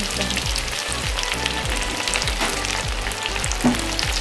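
Dried anchovies deep-frying in hot oil in a wok: a steady hard sizzle full of fine crackles, with a wooden spatula stirring them near the end. The bubbling is the sign that the freshly added fish are not yet cooked crisp.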